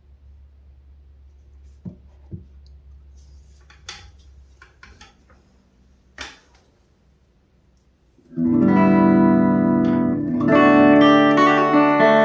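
Amplifier hum with a few faint clicks of string and handling noise, then about eight seconds in, heavily distorted electric guitar chords from a Reverend Charger HB's bridge humbucker through a TC Electronic Grand Magus distortion pedal and Blackstar Debut 50R amp start up and ring out, changing chord once.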